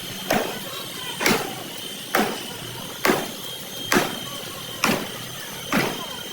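A hammer striking sheet metal seven times at an even pace, about one blow a second, each blow ringing briefly, over a steady high-pitched whine.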